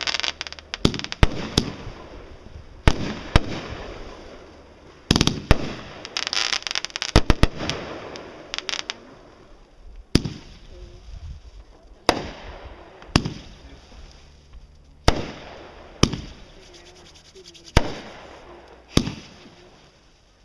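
Aerial consumer fireworks going off in quick succession: about a dozen sharp bangs, one every second or two, each trailing off in an echo, with a dense stretch of crackling bursts in the middle.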